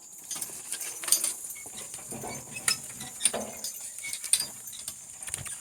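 Donkey harness hardware and a wagon clinking and rattling at a walk, a string of irregular light metallic clinks.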